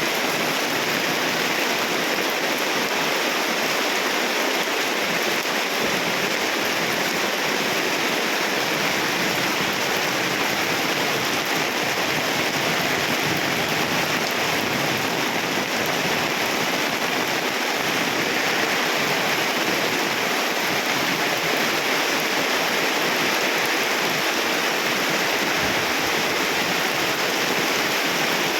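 Rain falling steadily: a dense, even hiss with no let-up.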